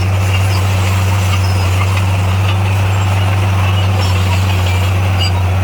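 Heavy-equipment diesel engine running at a steady speed, a constant low drone.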